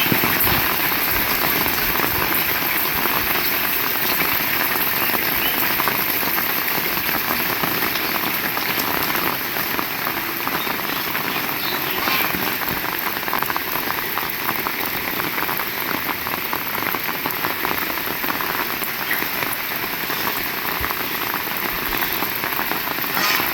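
Heavy rain falling steadily, with a dense spray of close drop impacts.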